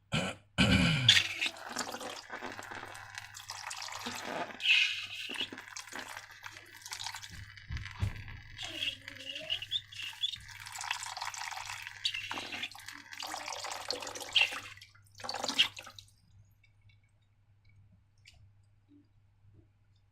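Liquid being poured and handled, with drips and splashes. It stops about four seconds before the end.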